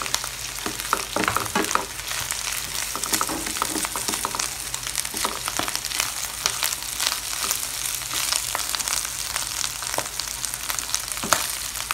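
Pork binagoongan frying in a pan with a steady sizzle. A spatula stirs and scrapes through it, adding frequent short clicks and scrapes against the pan.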